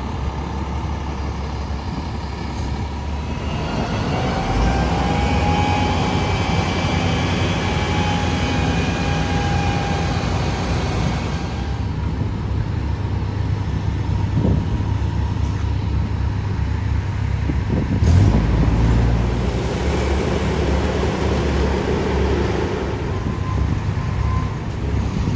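A heavy diesel engine running steadily. A high, slightly rising whine joins it for several seconds. About two-thirds of the way through comes a single heavy thump.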